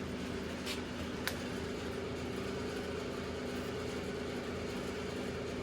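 Steady mechanical hum of a running machine, with two light clicks about a second in.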